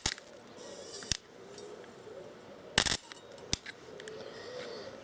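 Sharp cracking snaps of a 12-volt car-battery spot weld: the pointed bolt electrode sparks as it makes and breaks a dead short through the stainless steel. About four short cracks, the longest near three seconds in.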